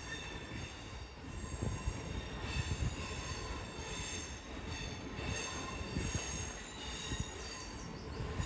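Class 465 Networker electric multiple unit slowing into the platform, its wheels screeching in several steady high-pitched tones over a low rolling rumble.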